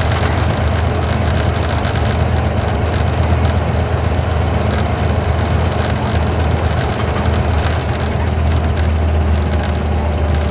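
Isuzu Gala coach's V-type diesel engine running at a steady pace, a constant low drone mixed with road and tyre noise as heard inside the bus, with light scattered rattles.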